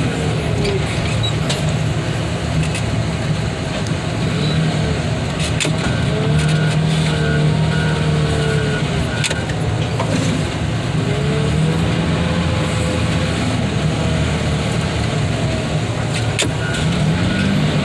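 Heavy equipment engine running steadily under load, with a whine that rises and falls in pitch several times as the machine works. Faint even beeping comes and goes in the middle and near the end.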